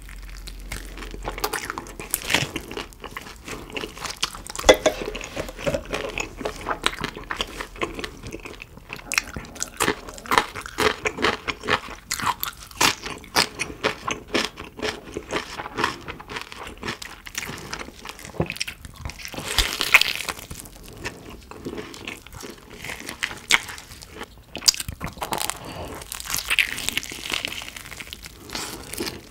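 Close-miked eating: roast pork knuckle (Schweinshaxe) and BBQ pork ribs bitten into and chewed, with many sharp crunches of the crackling-crisp skin.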